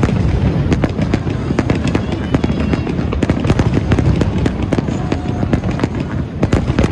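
Aerial firework shells bursting in a rapid barrage: many bangs close together over a continuous low rumble.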